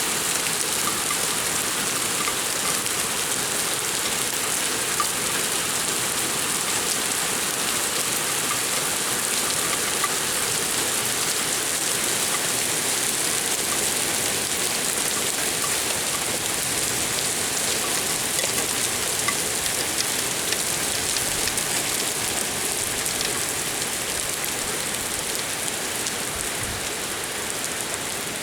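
Heavy downpour of rain and hail hissing steadily on the ground and roofs, easing slightly near the end.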